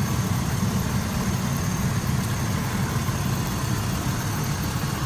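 Micro Bird bus's 4.8-litre Chevrolet engine idling steadily with an even low rumble.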